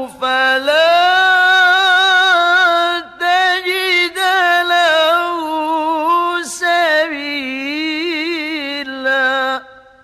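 A male qari reciting the Quran in melodic mujawwad style, his voice unprocessed. He holds long notes with ornamental wavering runs, breaks twice briefly and stops just before the end.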